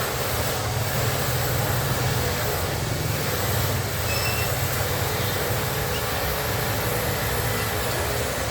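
A steady low rumble with a hiss over it, unbroken throughout, of the kind a running vehicle or engine makes.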